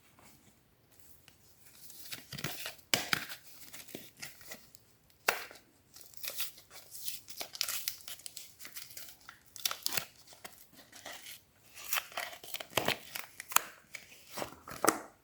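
Soap wrapper being torn open and crinkled by hand: a run of crackling tearing and crumpling sounds with several sharper rips among them.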